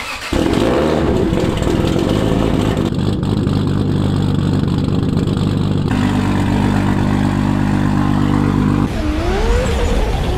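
A cammed Toyota Supra MKIV 2JZ-GTE straight-six, fitted with GSC S2 camshafts, idling steadily, heard at the exhaust tailpipe. Near the end the engine sound gives way to a swooping, gliding tone.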